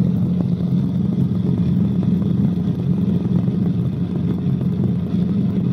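Cabri G2 helicopter in cruise flight, heard from inside the cabin: a steady, unbroken low drone from its Lycoming four-cylinder piston engine and rotors.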